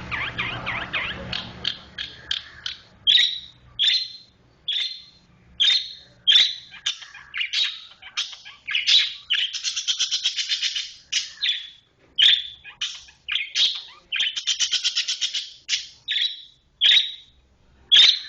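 Long-tailed shrike (cendet) singing: a string of short, sharp high calls, one or two a second, broken twice by a rapid rattling roll lasting about two seconds.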